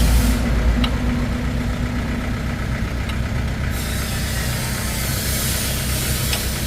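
A vehicle engine running steadily at idle, with a few faint clicks.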